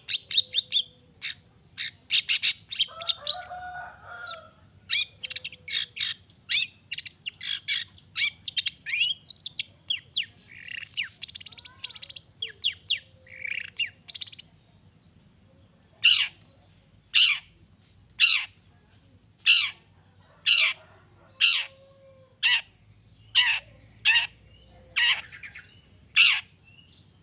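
Long-tailed shrike (cendet) singing a fast, varied chattering song with a harsh lower squawk a few seconds in. About halfway through it changes to a steady series of sharp, falling calls, about one a second.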